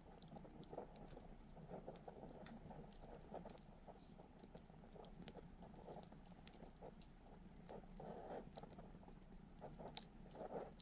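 Wood campfire crackling faintly: scattered small pops and snaps at irregular intervals over a low, steady hiss. The sharpest snap comes near the end.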